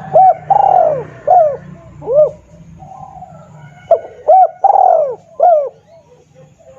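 Spotted dove (tekukur) song used as a hunting lure: two loud phrases of about four hoarse coos each, the second coo in each phrase drawn out longer.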